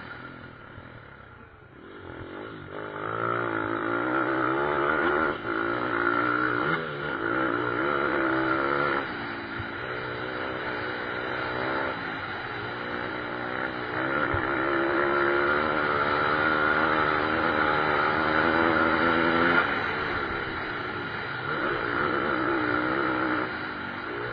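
Racing pit bike engines revving, their pitch rising and falling over and over as the bikes accelerate and shift. The sound is quieter for about the first two seconds and loud after that.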